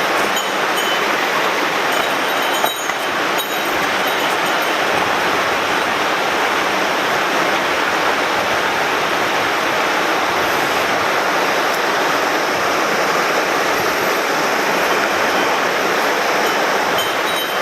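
Mountain stream water rushing steadily and loudly over rocks.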